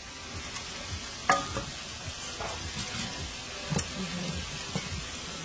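Sliced ripe plantains and greens sizzling in a stainless steel sauté pan as a wooden spoon stirs them. There are two sharp clicks, about a second in and near four seconds.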